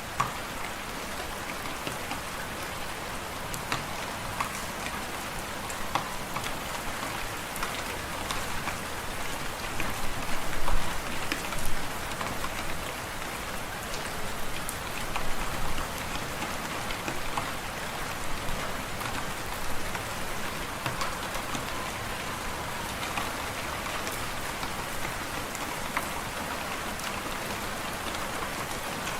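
Wood fire crackling in a fireplace: a steady hiss strewn with sharp pops and snaps, with a run of louder pops about ten to twelve seconds in.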